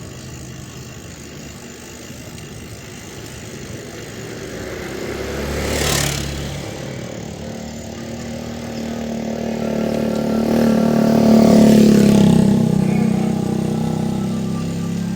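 Two motor vehicles passing close by, one after the other: the first swells and passes about six seconds in, the second, louder, builds up and passes around eleven to twelve seconds in, its engine note dropping in pitch as it goes away.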